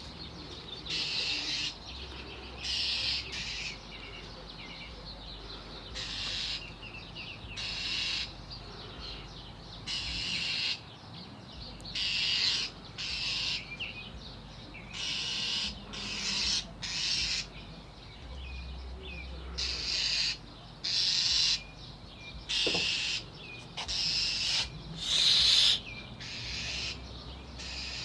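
An agitated bird giving a long series of short, harsh, noisy calls, about one every second and a half: alarm scolding aimed at a cat.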